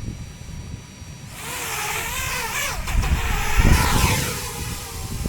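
Electric radio-controlled aircraft flying close by, its rotor and motor whine starting about a second in, rising and falling in pitch, loudest just past the middle and sliding down as it moves away. Wind rumbles on the microphone underneath.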